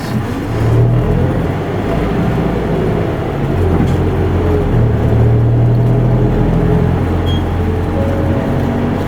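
Isuzu Erga Mio city bus's four-cylinder diesel engine running under way, heard from inside the cabin, its pitch shifting as engine speed changes.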